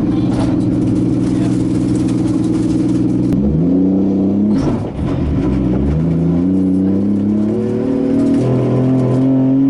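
Turbocharged 2JZ-GTE straight-six in a Nissan 240SX drift car running at steady revs, then climbing in pitch about three and a half seconds in, dropping briefly around five seconds, and rising again in steps to hold at higher revs.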